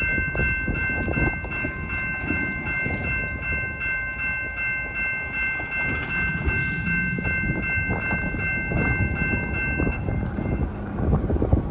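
A train passing, with a steady rumble and wheels clicking over rail joints in a regular beat. A high steady whine rings over it and stops about ten seconds in.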